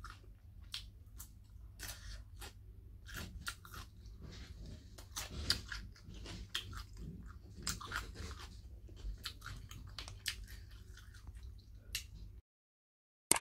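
Close-up mouth sounds of chewing and crunching a raw green chili: many short wet crackles and crunches at an uneven pace over a low steady hum. The sound cuts off near the end.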